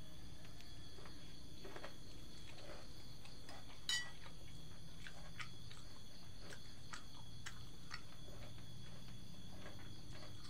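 Faint steady insect chirring over a low background hum, with scattered small clicks; the sharpest click comes about four seconds in.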